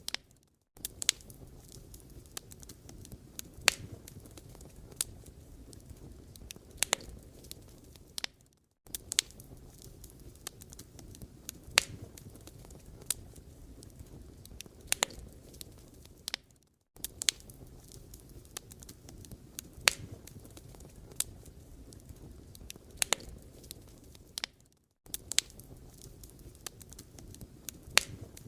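Firewood burning, crackling with sharp, irregular pops over a low steady rumble of the flames. The sound drops out briefly about every eight seconds.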